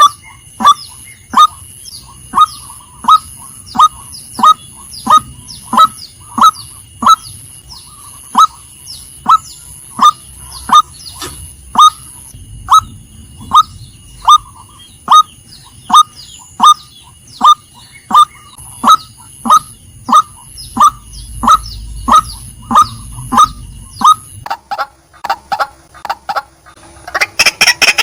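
Female white-breasted waterhen calling: a monotonous series of short, falling 'kwak' notes, about three every two seconds. In the last few seconds the notes come faster and bunch together.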